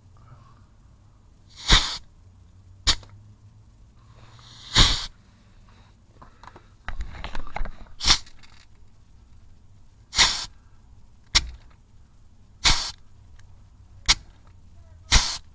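Pneumatic grease gun working a driveshaft grease nipple: about nine short, sharp bursts of air hiss at uneven gaps of one to two seconds, with a brief clatter about halfway through.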